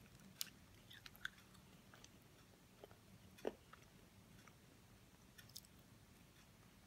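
Near silence with scattered faint mouth clicks from a child chewing a fizzy sweet tablet; the clearest come about half a second and three and a half seconds in.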